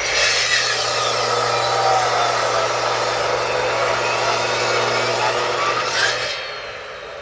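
Electric saw running and cutting firewood, a loud rushing noise over a steady motor hum; it cuts off about six seconds in.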